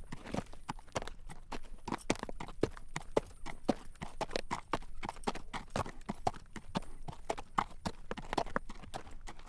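Horse's hooves clip-clopping on a road at a walk while it draws a carriage, a quick, even run of clacks.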